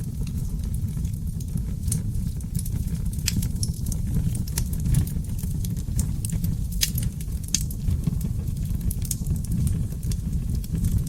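Wood fire of oak logs burning in a fireplace: a steady low rumble of flames with frequent sharp crackles and pops.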